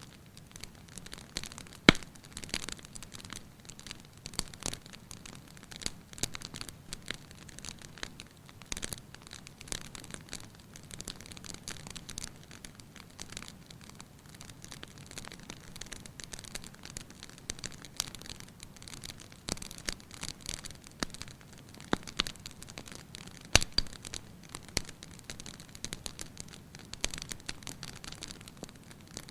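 Wood fire crackling in a fireplace: a constant patter of small irregular pops and snaps, with two sharp loud pops, one about two seconds in and one about three-quarters of the way through.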